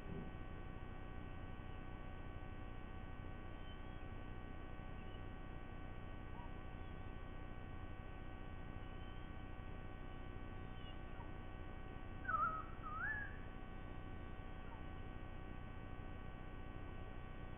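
Steady electrical hum with a bird's call of two short whistled notes about twelve seconds in, the second rising in pitch.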